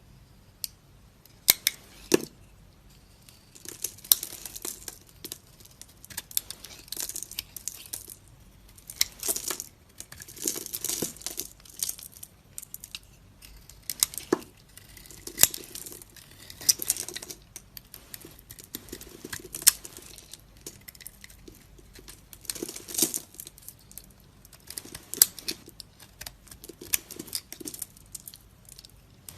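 A knife cutting into dry bar soap: an irregular run of crisp crunching and cracking strokes, with a few sharp clicks.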